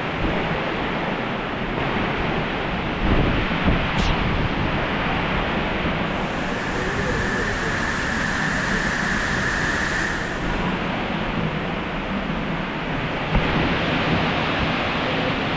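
Steady rush of falling water from a nearby waterfall, the Lower South Falls, with a few short low bumps on the microphone.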